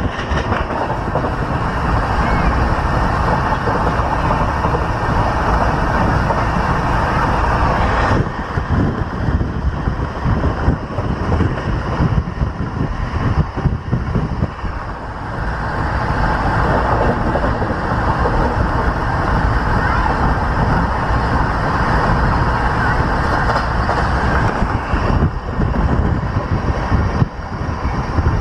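Passenger coach of an express train running at speed on the rails: a loud, steady rumble and rattle of wheels and coach body, with a short drop in loudness about halfway through.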